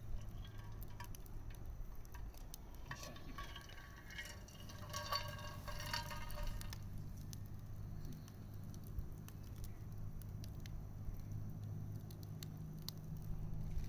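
Wood bonfire crackling, with many small sharp pops scattered irregularly. Between about three and seven seconds in, a thin whistling of several pitches joins the crackle, over a steady low hum.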